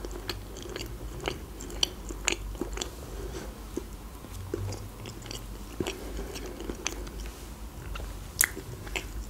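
A person chewing a mouthful of soft croissant, with irregular wet mouth clicks and smacks.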